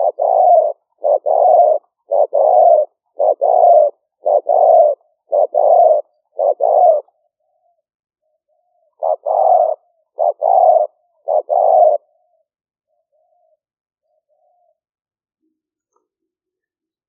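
Spotted dove cooing: a run of two-part coos, each a short note followed by a longer one, about one a second. Seven come in a row, then a pause of about two seconds, then three more before it stops. A few faint soft notes follow.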